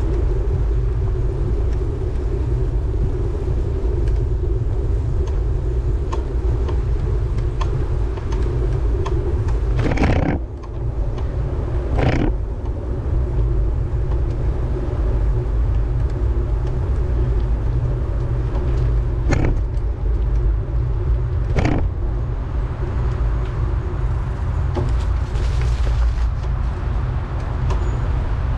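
Steady low rumble of wind and road noise on a camera riding along on a road bike, broken by four sharp knocks through the middle.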